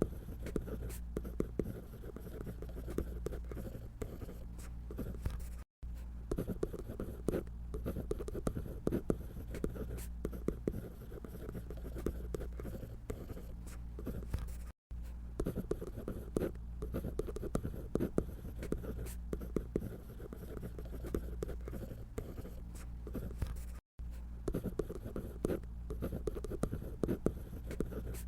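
Pencil or pen strokes scratching on paper while drawing a paper doll figure, a dense run of short quick strokes over a low steady hum. The sound drops out completely three times for a split second.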